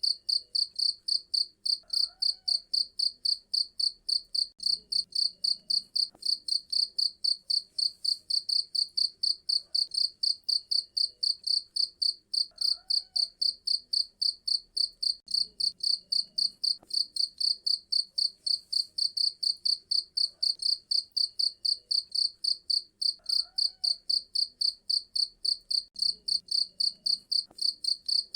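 Cricket chirping loudly and steadily: a rapid, even train of high-pitched chirps, about two to three a second.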